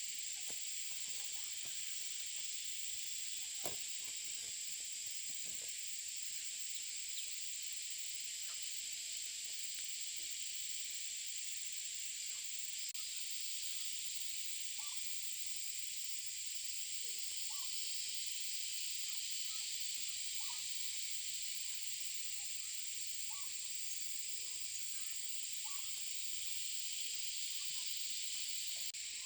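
Steady high-pitched insect drone, with a few faint clicks early on and scattered short, faint chirps in the second half.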